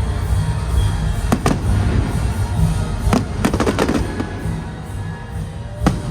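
Fireworks going off: two sharp bangs about a second and a half in, a quick run of crackling reports around three and a half seconds, and one more bang near the end, over a low rumble, with music playing underneath.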